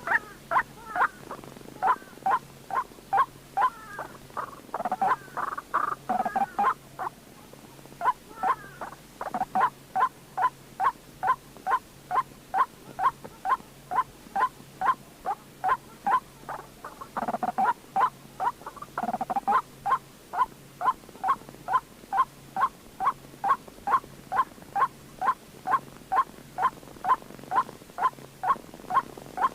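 White-breasted waterhen calling: a long run of short, repeated notes, about two a second, broken twice by rougher, denser passages.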